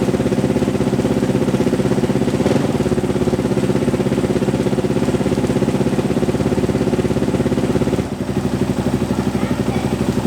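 Yamaha WR450F's single-cylinder four-stroke engine running steadily with an even beat on its first start after a full rebuild, fired with the cold-start knob pulled. The beat falters briefly about eight seconds in.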